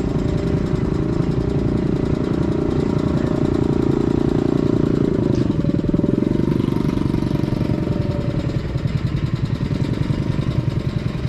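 A vehicle engine idling: a steady low run of fast firing pulses that grow choppier and more pronounced in the last few seconds.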